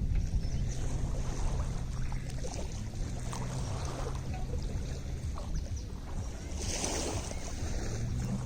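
Small waves lapping and splashing at a lakeshore, with a louder splash about seven seconds in. Wind rumbles on the microphone underneath, along with a faint low steady hum that drops out partway through and returns near the end.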